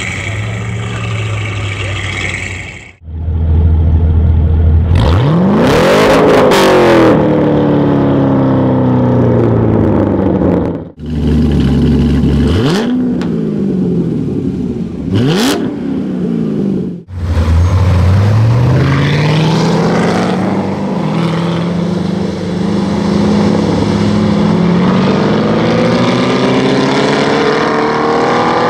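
Corvette V8 engines in a run of short cuts. First a 1963 split-window Corvette Sting Ray coupe idles. Then a red C6 ZR1 is revved hard in several sharp blips that rise and fall. Then two C7 Corvettes accelerate away together, their engine note climbing steadily.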